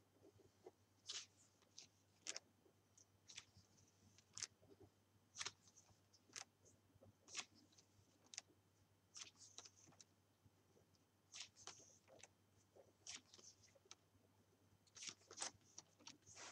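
Faint, short scratchy strokes on paper, irregular, about one to two a second, over a faint low hum.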